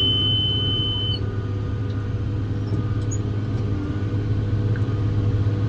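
John Deere 7410 tractor running steadily under load while pulling a round baler through hay, heard from inside the cab as an even low drone. A steady high-pitched tone sounds over it for about the first second, then stops.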